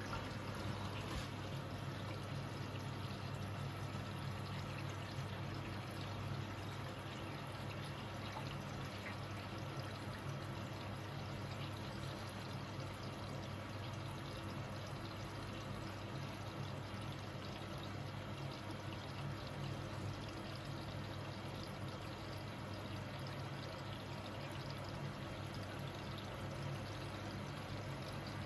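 Hoover H-Wash 500 washing machine filling with water at the start of its service-mode test cycle: a steady rush of water into the machine over a low, even hum.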